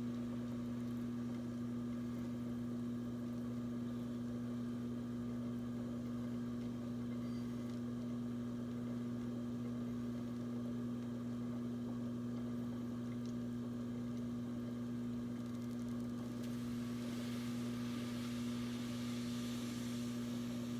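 Electric potter's wheel running at a steady speed, a constant low hum. A soft hiss comes in near the end.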